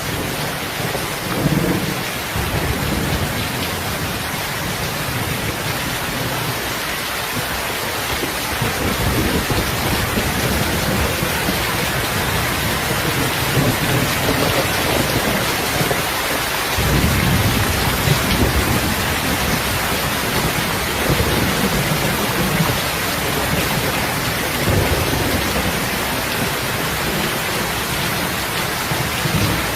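Steady heavy rain hissing, with low rumbles that swell and fade several times.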